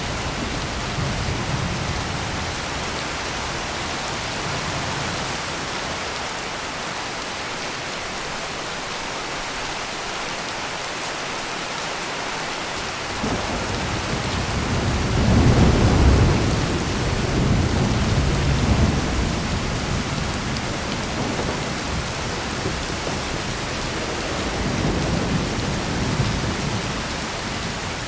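Heavy rain pouring steadily, with rolling thunder: a low rumble dies away early, then a fresh roll builds about halfway through, peaks a couple of seconds later and rumbles on, swelling once more near the end.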